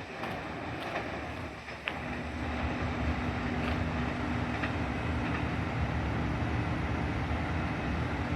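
Limited express Hida train running through the station: a steady rail rumble that grows louder about two seconds in, with a held tone for a couple of seconds.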